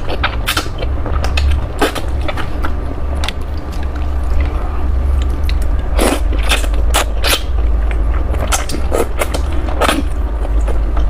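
Close-miked chewing and wet mouth sounds of a person eating rice noodles: irregular smacks and clicks, over a steady low hum.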